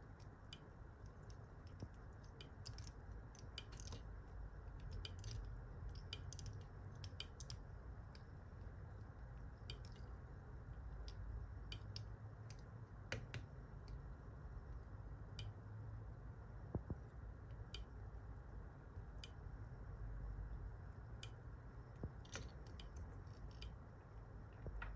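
Fly-tying handling sounds at the vise: scattered faint clicks and soft rustles as tying thread is wound on from the bobbin, over a low steady hum.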